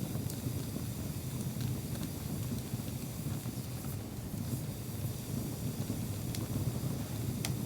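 Campfire burning, with a handful of sharp crackles and pops from the wood, the strongest near the end, over a steady low rumble.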